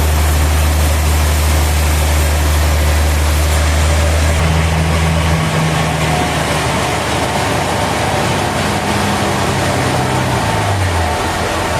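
Heavy sawmill machinery running: a loud low engine hum under a wide, noisy hiss. About five seconds in the hum drops, and near the end a lower tone slides down in pitch and stops, as the machine winds down.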